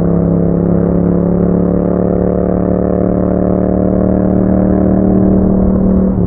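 Yamaha MT-07's 689 cc parallel-twin engine through an Akrapovic exhaust, held at steady revs while riding, giving a constant, even drone.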